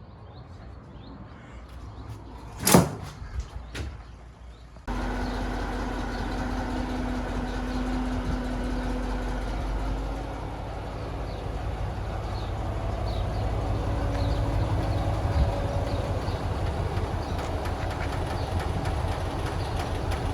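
A sharp knock, then about five seconds in an engine running steadily at low speed.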